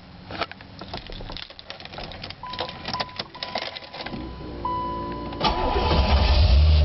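1986 Corvette's 5.7-litre V8 being started: a run of clicks and a steady warning chime, a low whir of cranking, then the engine catches about five seconds in and settles into a loud, deep exhaust rumble through the high-performance exhaust.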